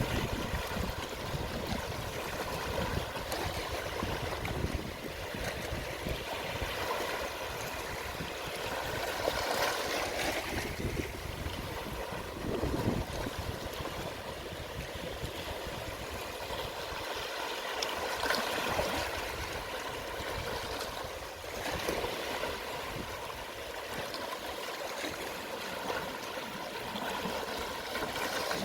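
Calm sea waves washing gently onto the shore at low tide. Each wash swells and fades roughly every eight to nine seconds over a steady hiss of moving water.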